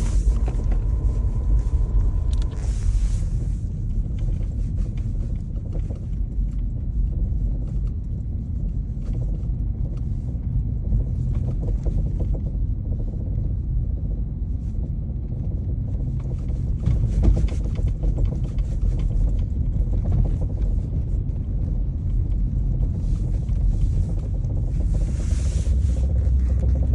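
Inside the cabin of a moving Volkswagen Golf 7: steady low road and tyre rumble, with a short steady beep near the start and occasional brief knocks, the unexplained rear knock under investigation.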